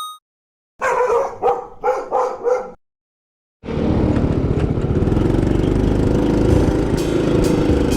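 A dog barks about five times in quick succession; after a short silence, a motorcycle's engine and riding noise come in abruptly about halfway through and run on steadily.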